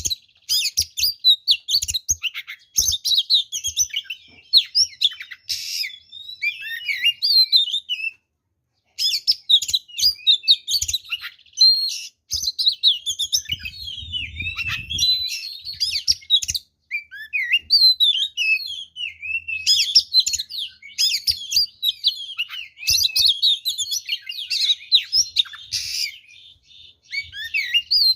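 Oriental magpie-robin (kacer) singing a long, rapid, varied song of whistles, trills and chattering notes. The song is packed with fill-in phrases ('full isian'), the style hobbyists use to provoke rival males. It breaks off briefly about eight seconds in.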